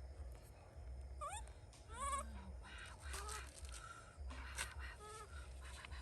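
A monkey calling: two rising, whining calls about one and two seconds in, then a run of shorter calls, over a low pulsing rumble.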